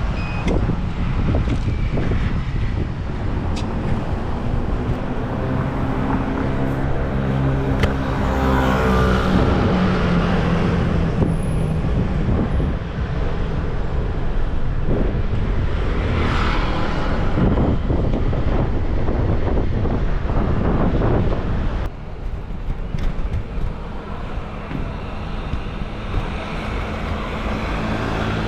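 City street traffic: a steady rumble of passing cars, with a heavier vehicle's engine droning past early on. About two-thirds of the way through the sound drops suddenly to quieter traffic.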